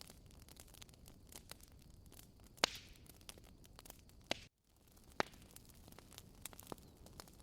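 Wood fire crackling in a fireplace: a soft hiss of burning with frequent small snaps and a few sharper pops, the loudest about a third of the way in. The sound cuts out for a split second just past halfway.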